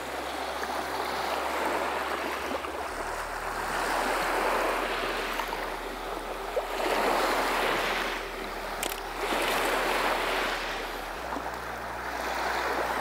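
Small waves washing in and draining back over stones at the water's edge, the wash swelling and easing every two to three seconds.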